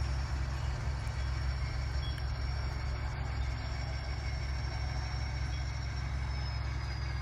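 Sound-equipped model locomotive with an ESU LokSound decoder moving, its speaker playing a steady engine sound with a low rumble. A faint high whine runs under it and dips slightly near the end.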